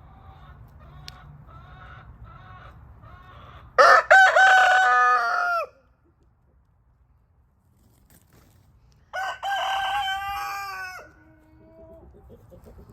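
Rooster crowing twice, each crow loud and nearly two seconds long, the first about four seconds in and the second about nine seconds in. Before the crows there are soft short clucks, about two a second.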